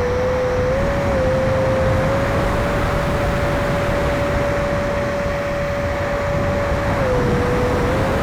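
6S 70 mm electric ducted fan of an E-flite F-16 RC jet, whining at one steady pitch over a constant rush of noise. Its pitch dips slightly for about a second near the start and again near the end.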